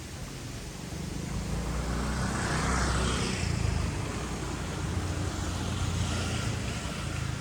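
A motor vehicle passing close by, its engine and tyre noise growing to a peak about three seconds in and then easing away.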